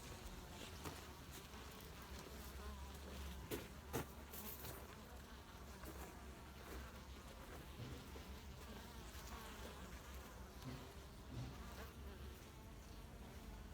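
Honeybees buzzing faintly around the hives, with two sharp clicks about four seconds in.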